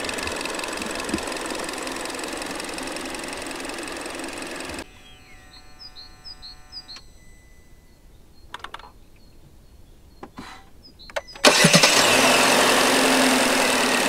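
Hyundai Elantra engine running steadily, then a sudden drop to quiet with a few short electronic beeps and clicks. About eleven seconds in the engine starts with a sudden loud burst and keeps running.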